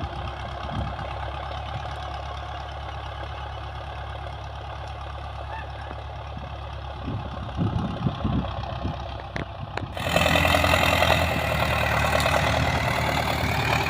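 Old Soviet tractor engine running steadily; about ten seconds in the sound jumps suddenly louder and fuller and keeps running.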